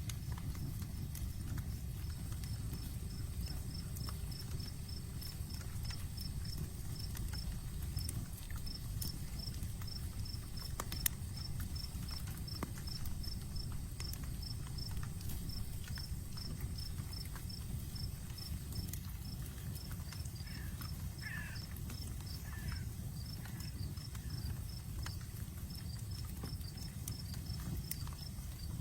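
Outdoor campfire crackling with sparse sharp pops, one louder pop about eleven seconds in, over a low steady rumble. Crickets chirp steadily in quick, even pulses, with a thin continuous high insect buzz behind them.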